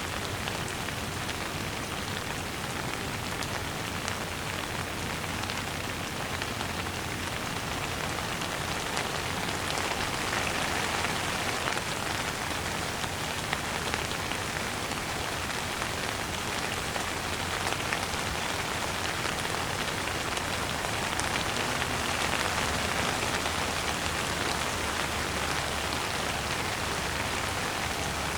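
Steady rain falling on a surface, an even hiss of countless drops with faint individual drop ticks.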